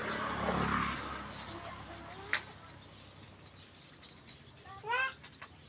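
Rustling over the first second, a single sharp tick a couple of seconds in, and near the end a bird giving a quick run of short rising calls.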